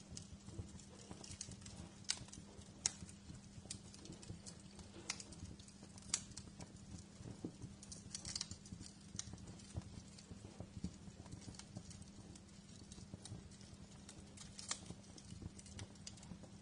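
Fire crackling in a fireplace: scattered sharp pops and snaps at irregular intervals over a steady low hum.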